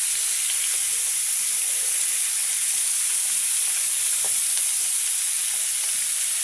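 Boneless chicken sizzling steadily in a hot frying pan.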